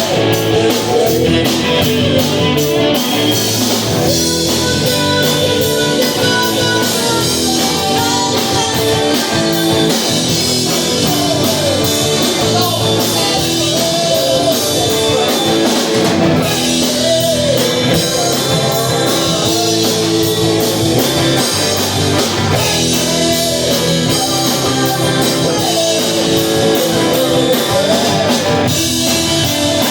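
Live rock band playing at full volume: distorted electric guitar with bass and drum kit, the lead line bending and wavering through the middle of the passage.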